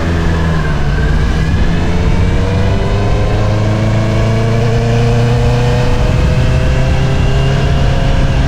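2022 Honda CBR650R's inline-four engine through an Akrapovič single-outlet exhaust, pulling steadily under way with the revs slowly rising.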